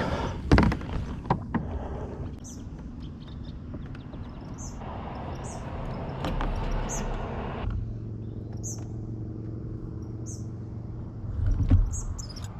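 Birds chirping, short high calls repeating every second or so, over steady outdoor background noise, with a couple of sharp knocks near the start.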